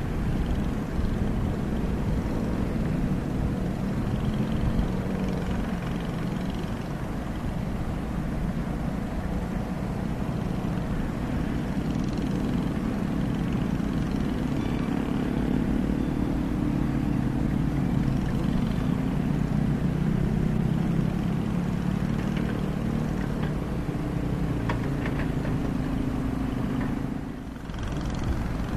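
Komatsu hydraulic excavator's diesel engine running steadily, its level rising and falling a little, with a brief dip in level near the end.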